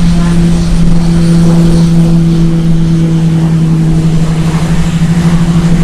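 Embraer A-29B Super Tucano single-engine turboprop running: a loud, steady propeller drone with a strong low hum.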